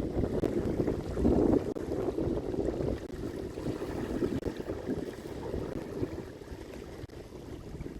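Wind buffeting the microphone: an uneven low rumble that eases off a little near the end.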